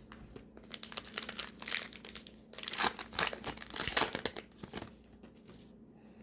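Wrapper of a 2025 Topps Allen & Ginter card pack being torn open and crinkled, a dense crackle that starts about half a second in and stops near five seconds, with a brief break in the middle.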